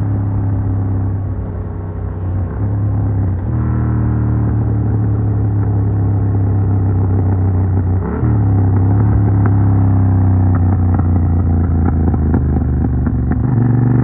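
Yamaha MT-07's 689 cc parallel-twin engine (CP2, 270° crank) running through an Arrow Works full exhaust with dB killer, pulling steadily while riding. It is heard from a phone in the rider's backpack. The sound breaks briefly about eight seconds in, then carries on louder, and rises in pitch near the end.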